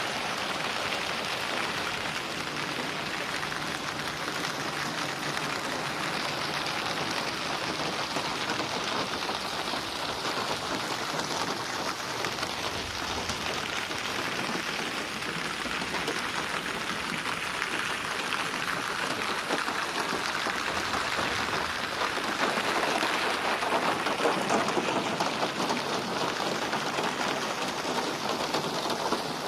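Steady rain falling and splashing on a surface, with no thunder, growing slightly heavier about three-quarters of the way through.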